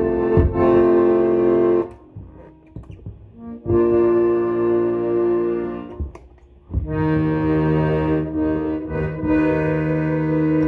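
Old Parrot piano accordion played in held chords: three long chords with short pauses between them, a low bass note joining in on the last. The found instrument is being tested and sounds in working order.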